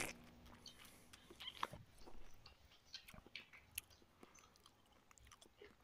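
Faint chewing and small wet mouth clicks of a person eating rice and fish by hand, in scattered soft ticks, a little busier about one and a half to two seconds in.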